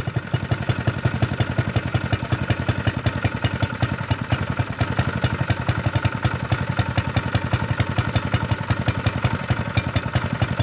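Honda GX120 single-cylinder overhead-valve engine on a minibike running steadily with an even firing beat, just after a cold start on the first pull; the engine has its governor bypassed and a ported intake with a pod filter.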